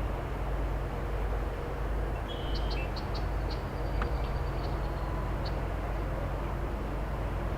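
Steady low drone of an excavator's diesel engine working a distance off. A few short, high bird chirps come about two to three and a half seconds in.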